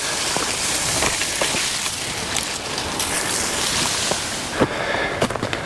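Pushing through dense, overgrown scrub: leaves and branches brushing and scraping against the body and camera in a steady rustling hiss, with sharp snaps of twigs and footfalls on loose ground that stand out more clearly near the end.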